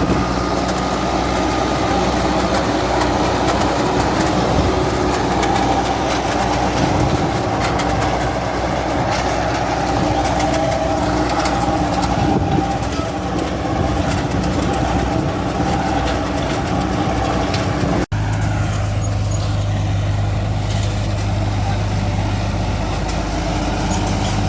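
Tractor engine running steadily under load while driving a super seeder. About three-quarters of the way through, the sound breaks off for an instant and changes abruptly to a steadier, deeper hum.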